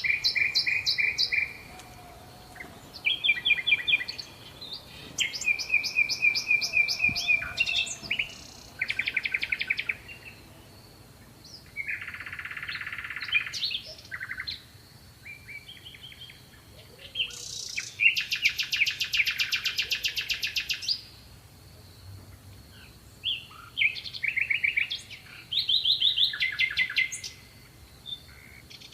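Small songbirds singing: bursts of rapid trills and chirps, each a second or two long, with short pauses between them. A faint steady high tone runs underneath.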